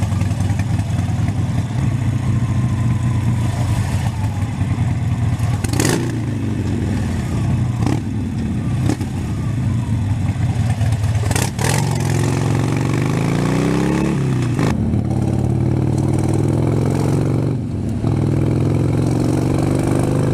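A 2013 Harley-Davidson Sportster 72's 1200cc V-twin runs while riding. Several times the engine climbs in pitch under acceleration, then drops sharply as it shifts gear, most clearly in the second half.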